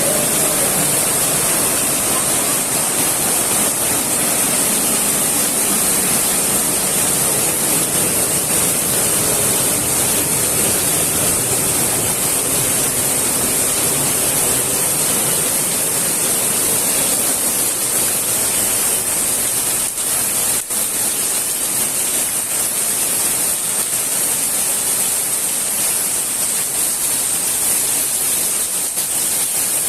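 Heavy rain falling, a loud, steady hiss of rain and runoff.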